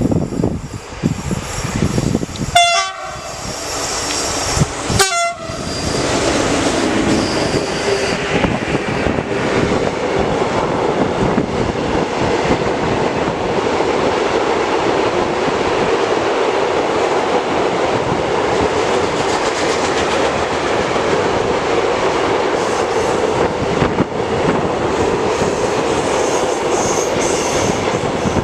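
Train on the PLM main line sounding two short horn blasts a few seconds in, then passing at speed with a long, steady rush and wheel rumble.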